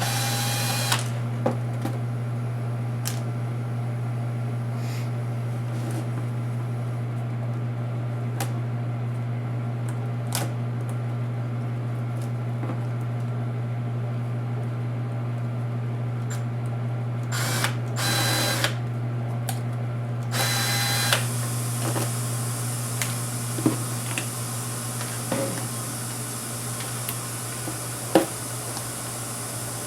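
Small electric screwdriver whirring in three short bursts while backing out laptop screws, over a steady low hum, with light clicks and taps of small plastic and metal parts in between.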